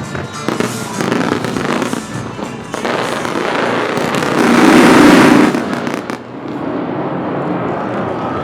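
Aerial fireworks bursting and crackling in quick succession over music. The loudest, densest stretch comes about four to six seconds in and cuts off sharply.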